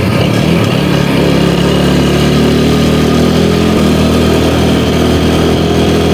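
Motorcycle engine running as the bike is ridden at low speed, its pitch shifting a little with the throttle near the start and again about four seconds in.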